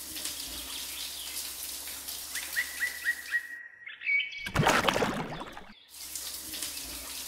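Water poured from a small plastic cup splashing into sand, in separate pours with short breaks; the pour about four and a half seconds in is the loudest. A bird chirps in quick runs of short notes in the background.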